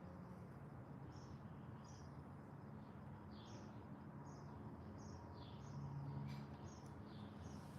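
Garden songbirds chirping: a string of short, high chirps, faint and repeated every half second or so, over a steady low background hum.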